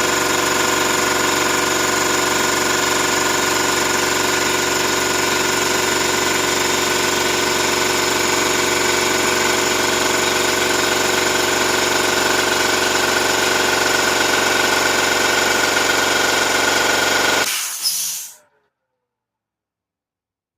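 Ekom air compressor running steadily with a loud motor-and-pump drone and hiss, then cutting off near the end and falling silent within about a second.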